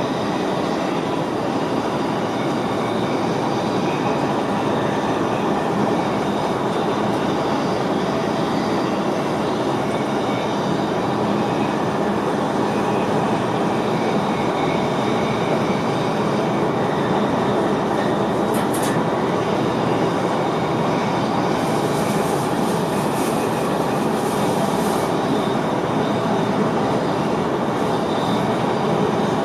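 Steady running noise of an NS VIRM double-deck electric train heard inside the driver's cab, with a short patch of high hiss a little past the middle.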